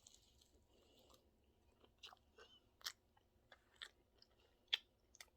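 Faint chewing: a person eating a ranch-dipped chicken nugget topped with cotton candy, heard as scattered soft mouth clicks and smacks starting about two seconds in.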